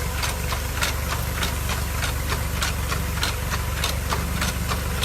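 Tractor's diesel engine running steadily, with a regular clatter of about three ticks a second over a low rumble.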